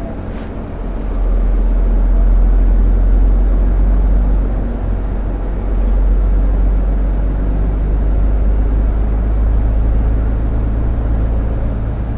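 Lorry's diesel engine and road noise heard from inside the cab while driving: a steady low drone that grows louder about a second in, then holds.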